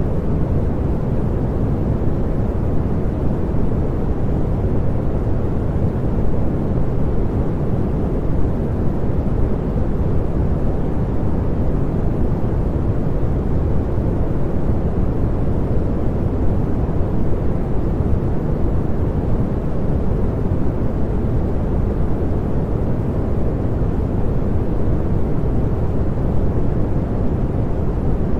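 Continuous synthetic pink noise: a steady, even rushing sound, heavier in the low end, that does not change.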